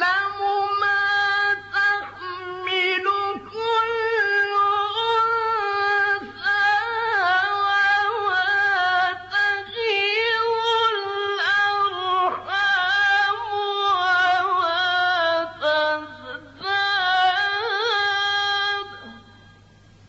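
A male Quran reciter chanting unaccompanied in maqam Bayat: one high voice drawing out long, ornamented held notes, over a steady low hum. The voice stops about a second before the end.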